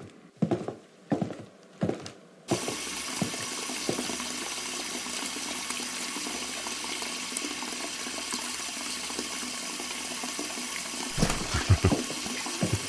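Water rushing and gushing steadily, a flooding sound effect that cuts in suddenly about two and a half seconds in. Before it come a few evenly spaced soft knocks, about one and a half a second, and louder irregular knocks join the water near the end.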